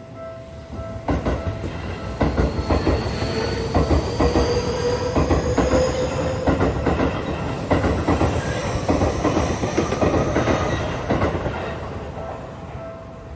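A Seibu Shinjuku Line electric train passing over a level crossing, its wheels clacking over the rail joints with a whine rising slowly in pitch; it builds about a second in and fades near the end. The crossing's warning bell rings at the start, is drowned out by the train, and is heard again near the end.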